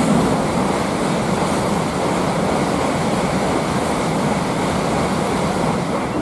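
Train passing at speed close by: a loud, steady rushing rumble of wheels and air that holds for about six seconds.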